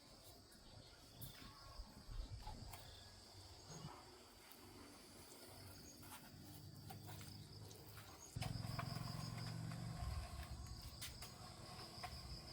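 Faint steady high-pitched insect chirring with scattered small clicks; about eight seconds in, an unidentified low-pitched sound comes in for a couple of seconds and is the loudest thing heard.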